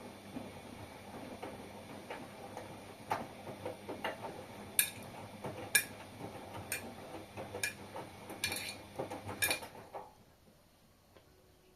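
Front-loading washing machine running a wash, its motor humming steadily while sharp clicks come about once a second as the drum turns. The motor and clicking stop about ten seconds in as the drum comes to rest.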